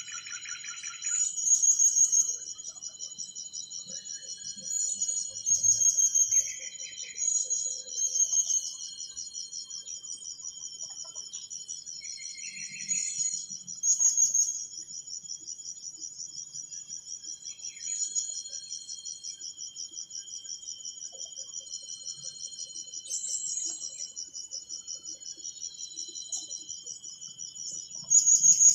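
Chorus of trilling insects such as crickets: a continuous, fast-pulsing high-pitched trill that swells louder every few seconds, joined a few times by short higher chirps.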